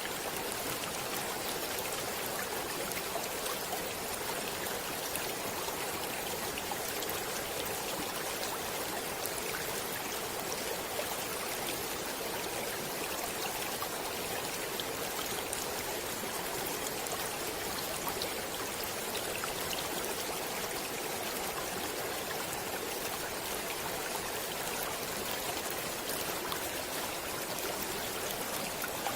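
Stream water flowing and splashing over rocks: a steady rushing with fine droplet patter.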